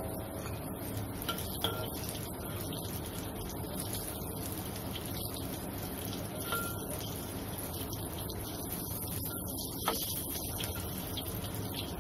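Flour-battered eggplant sticks frying in hot oil in a wok, a steady sizzle, with a few sharp clinks of a metal spatula against the pan.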